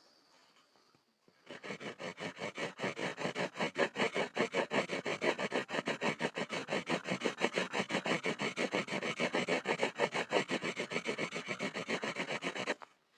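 Pencil scribbling on a board: rapid back-and-forth scratchy strokes, several a second, starting about a second and a half in and stopping shortly before the end.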